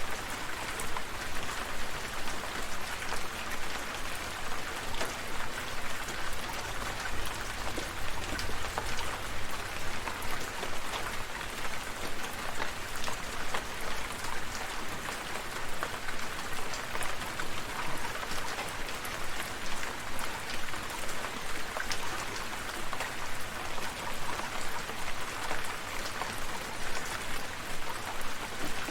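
Steady rain falling, with many individual drops pattering close by over an even hiss. A faint low rumble underlies it for several seconds near the start.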